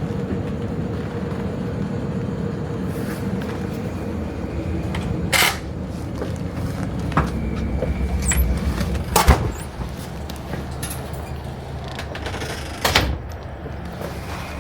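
Electric train running: a steady low rumble, with a faint steady tone in the first few seconds. Several sharp clunks and rattles sound through it, the loudest about nine and thirteen seconds in.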